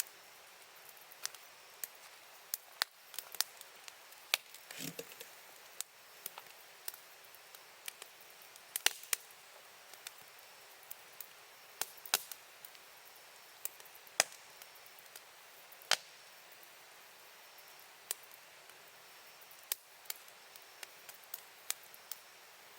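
Wood campfire crackling: irregular sharp pops and snaps over a steady faint hiss, with a short denser flurry about five seconds in.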